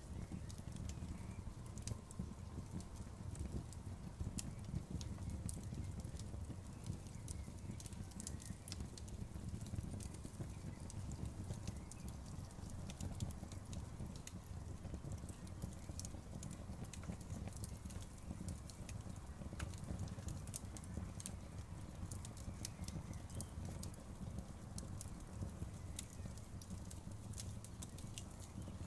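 Campfire burning, with many small irregular crackles and pops over a steady low rumble.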